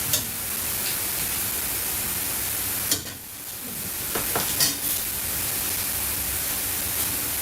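Food sizzling in a pan: a steady hiss, with a few sharp clinks about three and four and a half seconds in. The hiss drops away sharply about three seconds in and swells back over the next second.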